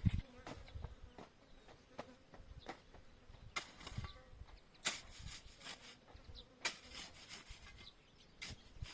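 A flying insect buzzing, with scattered short knocks and scrapes; the loudest knocks come about five seconds in and again near seven seconds.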